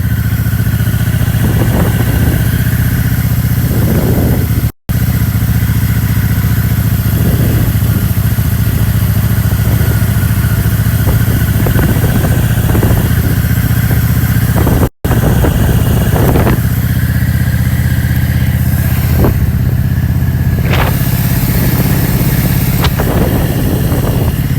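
Motorcycle engine running steadily at a constant speed, with wind noise over it. The sound cuts out briefly twice, about five and fifteen seconds in.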